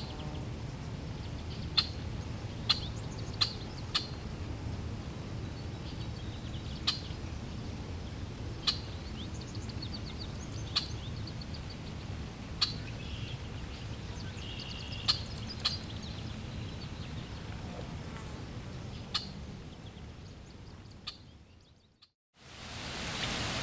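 Birds chirping in short, sharp calls every second or two over a low, steady background rumble. About 21 seconds in everything fades to silence; then an even hiss of rushing water fades in near the end.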